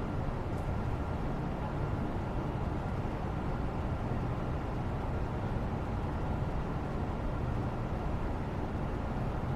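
Steady background white noise: an even, low rumbling hiss with no distinct events.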